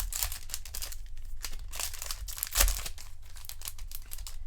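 Foil trading-card pack wrapper crinkling and tearing as it is handled and opened, in a dense run of short crackles with one louder crackle and bump about two and a half seconds in.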